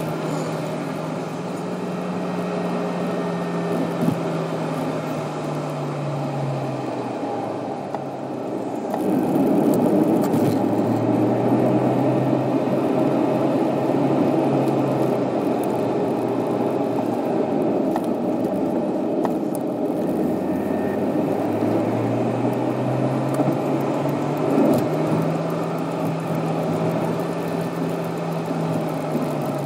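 Car driving: steady engine and road noise, the engine note slowly falling and rising again, louder through the middle stretch.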